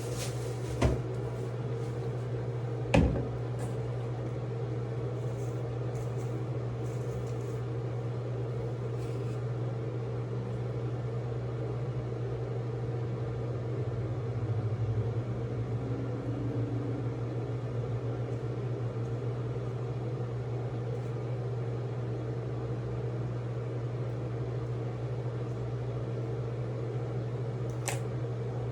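Steady low machine hum, with two sharp knocks about one and three seconds in and a light click near the end.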